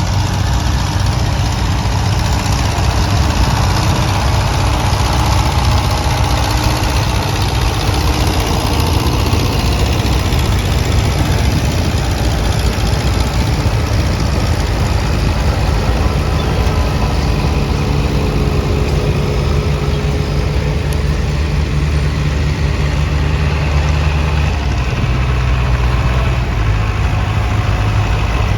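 Antique tractor engines running steadily under load while plowing. The low engine note shifts partway through, as a different engine tone comes up for a while and then changes again near the end.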